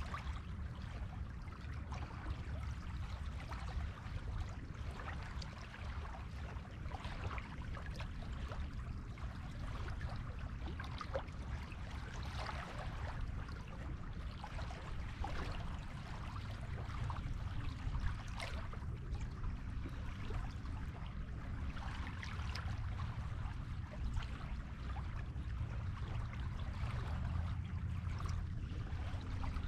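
Waves washing up a beach: a steady low rumble of surf under irregular fizzing washes of foam.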